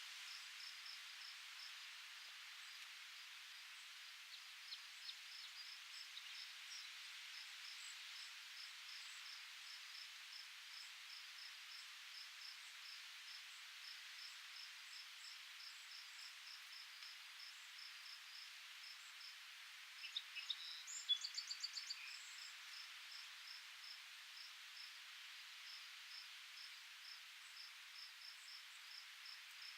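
Faint cricket chirping in an even, steady rhythm of several short chirps a second over a soft outdoor hiss. About two-thirds of the way through there is a brief, louder cluster of clicks and chirps.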